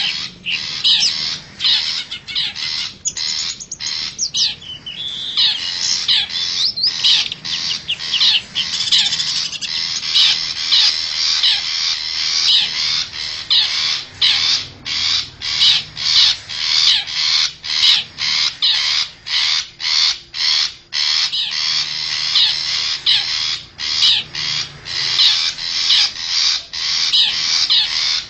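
Long-tailed shrike (cendet) singing: a rapid, continuous stream of high chattering notes broken by short pauses about once a second, used as a lure call to draw wild shrikes in.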